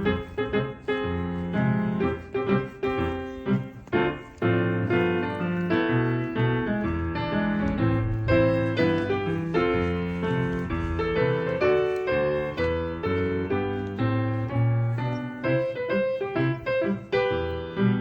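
Background music: piano playing a lively tune, notes struck in quick succession over a bass line.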